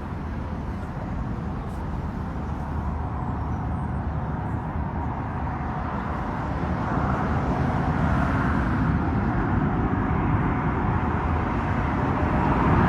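Jet engines of a British Airways Airbus A380, four Rolls-Royce Trent 900 turbofans, a steady rushing rumble that grows gradually louder, swelling further near the end.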